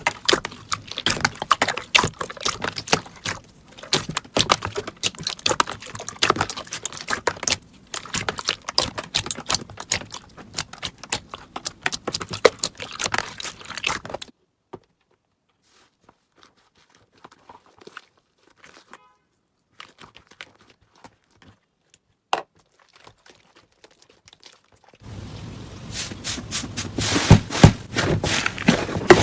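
Slime being worked by hand: a dense run of small wet clicks and pops. About halfway through it drops to near silence for some ten seconds with only a few faint clicks, then the clicking comes back louder near the end.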